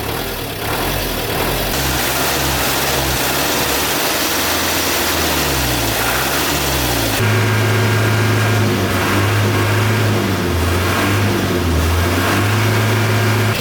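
Old truck's engine running, its speed shifting up and down for the first several seconds, then settling into a louder, steadier run about seven seconds in.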